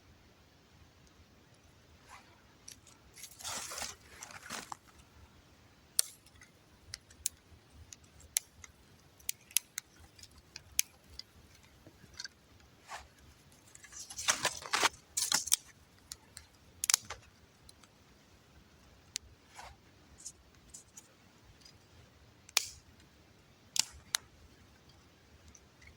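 Small dry twigs of a campfire snapping and crackling: scattered sharp single cracks, with two longer bursts of rustling and cracking, a few seconds in and about midway.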